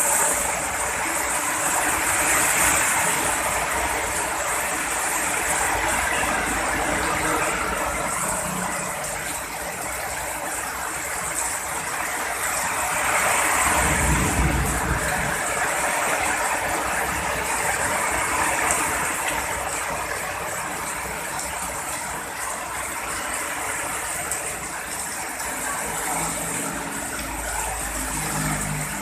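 Heavy rain pouring down steadily, with a low rumble of thunder swelling about halfway through.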